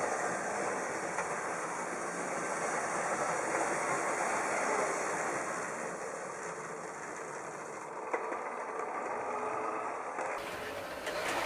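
H0-scale model train running on layout track: a steady mechanical running noise from the small motor and the wheels on the rails. The sound changes abruptly near the end.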